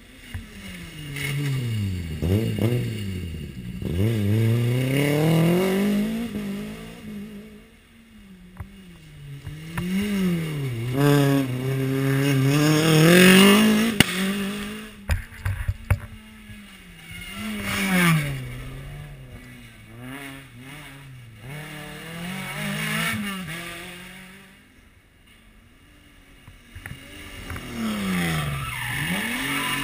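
Rally car engine revving hard and dropping back repeatedly as it accelerates, shifts and brakes through a stage. There are a few sharp cracks about halfway through, and the engine rises again near the end.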